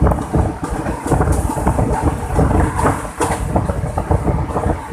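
Indian Railways passenger train running, heard from on board: a steady heavy rumble with dense rattling and clatter of the coach over the track, and wind buffeting the microphone.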